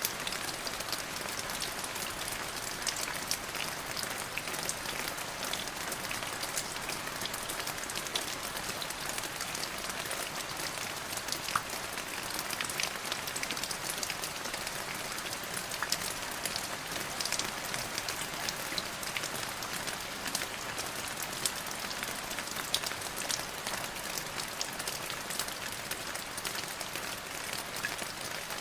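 Steady rain falling, a continuous hiss with many small drop impacts ticking all through it.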